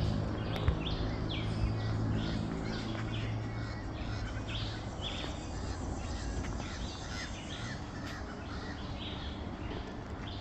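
Birds chirping, with short calls repeating several times a second. Under them a low steady hum fades away over the first half, and a single sharp click comes just under a second in.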